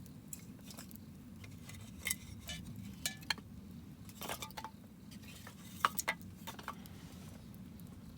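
Wood campfire crackling over a low steady rumble, with scattered sharp pops and clicks, the loudest about two, three and six seconds in.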